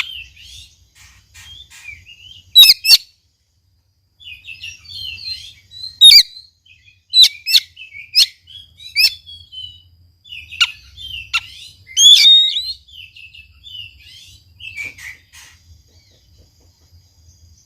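Oriental magpie-robin singing: bursts of varied, fast whistled and chattering phrases broken by short pauses, with a few loud, sharp notes.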